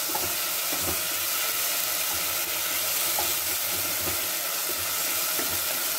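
Onions and ginger-garlic paste sizzling steadily as they fry in oil in a nonstick kadhai, with the soft scraping of a wooden spatula stirring them.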